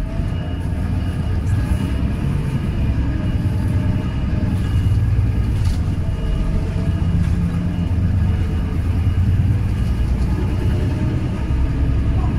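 Daewoo fourth-generation low-floor city bus running, its engine and drivetrain giving a steady low rumble with faint high whining tones above it.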